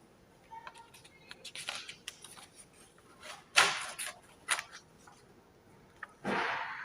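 Handling noises: rustling and scattered clicks, like a book's pages being turned, with one sharp, loud click about halfway through and a breath near the end.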